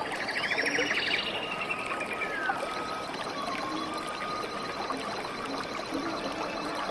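Steadily running water, like a stream, with several songbirds singing over it: a rapid buzzy trill in the first second or so, then clear whistled notes sliding up and down.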